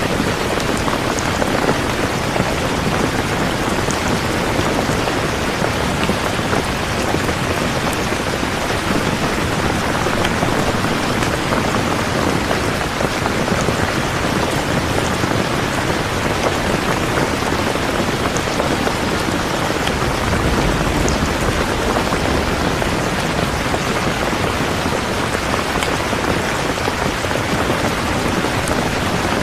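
Steady, dense rain falling on a surface, an even continuous patter of raindrops.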